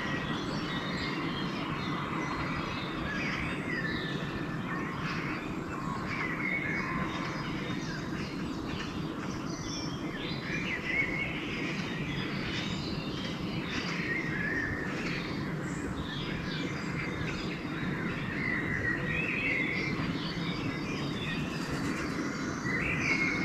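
Dawn chorus of several small songbirds, with overlapping short chirps and song phrases, over a steady low background rumble.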